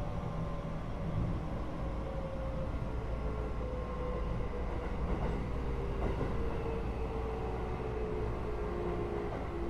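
Keio 8000 series train's Hitachi GTO-VVVF inverter and traction motors whining, heard from the car over the main controller. Several tones slowly fall in pitch over a steady running rumble as the train slows.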